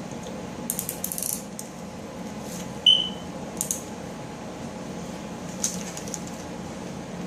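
Small plastic toy vehicles being handled, with scattered light clicks and rattles and one sharper clink about three seconds in, over a steady low hum.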